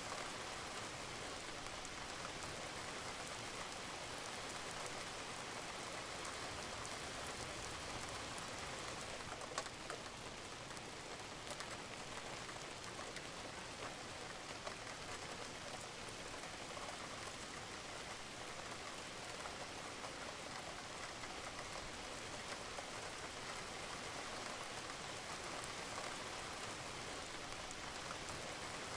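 Steady rain falling on a roof, with occasional sharper drips standing out; one louder drop lands about nine and a half seconds in.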